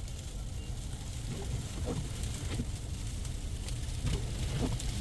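Ice pellets falling in a snowstorm, ticking irregularly against a car over a steady low rumble.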